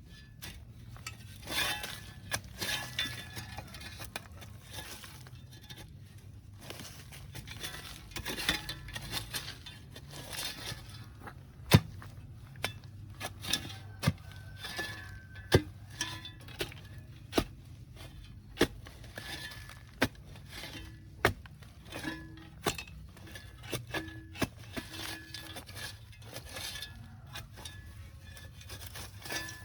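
Hand digging for wild yams: a metal digging tool striking and scraping the ground in sharp, irregular knocks, about one a second in the second half, with soil and leaves rustling in between.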